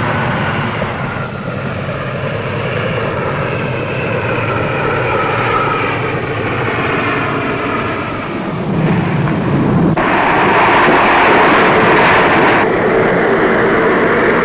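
Aircraft engines on a landing at a snow skiway: steady engine noise with several pitches falling slowly, then a louder rush of noise for a couple of seconds about ten seconds in, settling back to a steady run.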